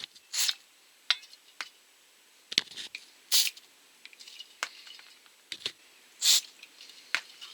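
Aerosol carburettor cleaner sprayed in three short hissing bursts about three seconds apart into the passages of a chainsaw carburettor, with light clicks and taps of handling between them.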